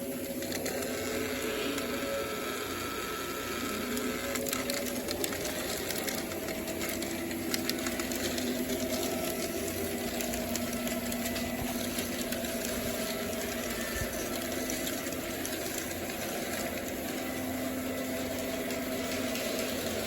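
O gauge model trains running on the track: a steady electric motor whine that wavers slightly in pitch, with light clicking from the wheels on the rails.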